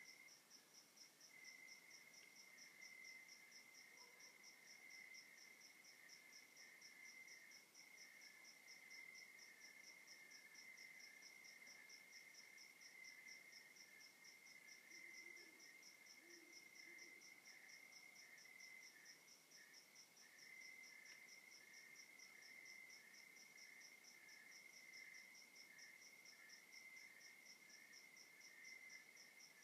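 Night insects, crickets, calling faintly: one holds a continuous high trill while another chirps in an even, rapid pulse above it, with softer regular chirps underneath.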